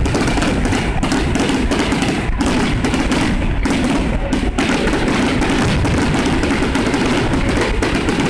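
A dense, unbroken barrage of fireworks going off, rapid thuds and bangs running together.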